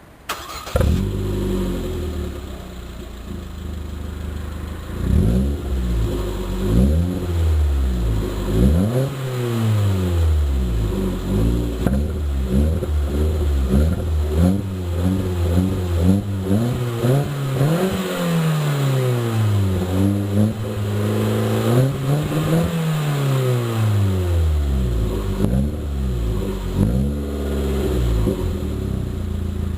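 Ford Fiesta Mk7's 1.25 four-cylinder petrol engine heard through its exhaust. It comes in abruptly about half a second in and runs at a steady idle, then from about five seconds on it is revved again and again, the pitch climbing and falling back with each blip.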